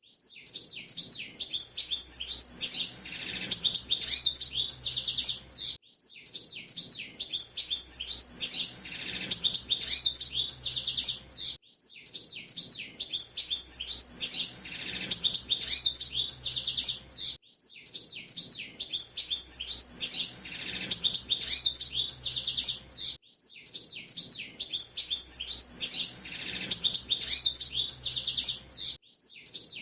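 Hooded siskin (pintassilgo de gravata) singing a long, fast, high twittering warble in phrases of about five and a half seconds, each separated by a brief pause, five times over.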